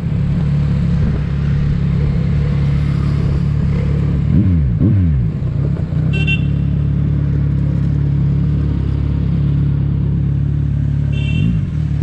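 Kawasaki Ninja 1000 inline-four engine running steadily while riding, with the revs dropping sharply twice a little over four seconds in and again near the end. A brief high-pitched beep sounds about six seconds in and again near the end.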